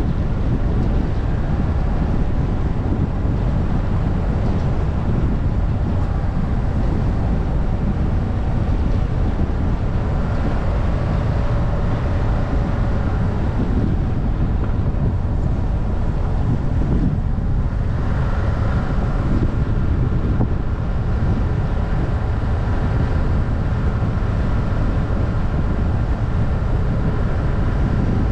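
Wind buffeting a bonnet-mounted microphone over the Subaru Forester's CB18 1.8-litre turbo flat-four, which is droning under engine braking on a downhill. The engine note wavers in pitch, dips briefly, then steps up higher about eighteen seconds in.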